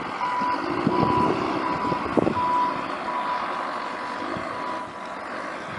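Backup alarm of a construction vehicle reversing: a single-pitch beep repeating about one and a half times a second, growing fainter and stopping near the end, over the rumble of its engine.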